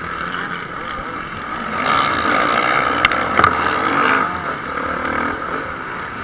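Motocross bikes' engines running hard during a race, swelling louder for a couple of seconds midway as bikes pass, with two sharp clicks about three seconds in.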